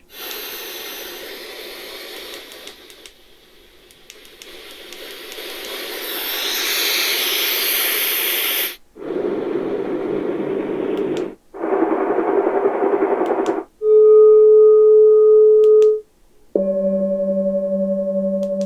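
Portable sound machine stepping through its built-in sounds, each cut off after a few seconds. First comes a long hiss that fades and swells again over about nine seconds, then two short spans of deeper, duller noise, then a steady hum, and near the end a low pulsing tone.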